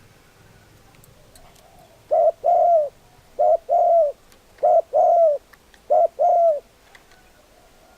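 Spotted dove cooing: four repeated phrases, each a short coo followed by a longer coo that falls slightly at the end, starting about two seconds in and spaced just over a second apart.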